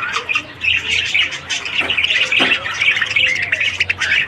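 Budgerigars chattering and warbling, many short chirps overlapping with no pause.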